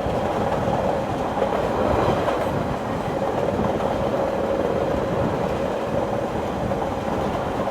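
Train running along the tracks: a steady rumble with a faint held tone above it, running evenly throughout.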